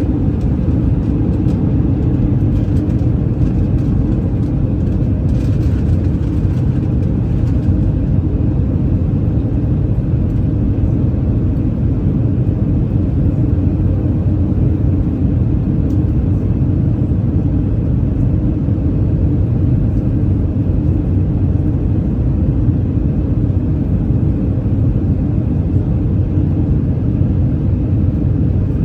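Steady, even rumble of an Airbus A319 in flight, engine and airflow noise heard as from inside the cabin.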